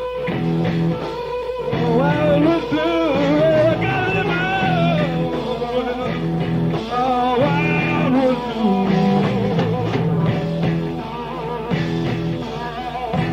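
Rock band playing a blues number live, on a lo-fi bootleg recording: a lead line of bent, wavering notes over a steady bass line.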